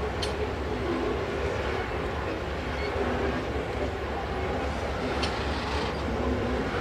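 Diesel-electric freight locomotives and hopper cars rolling past, a steady low engine rumble with wheels running on the rails. Two brief high squeaks come near the start and about five seconds in.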